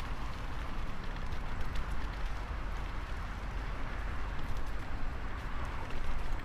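Wind buffeting the microphone and the steady hiss of bicycle tyres on a wet path while cycling in the rain.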